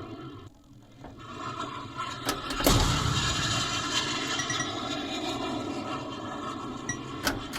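Bally Supersonic pinball machine in play through its custom sound board. A jet-like rushing noise builds up, a sharp sonic-boom crack comes about three seconds in, and a long rushing roar follows, with faint beeps and a few sharp mechanical clicks from the playfield near the end.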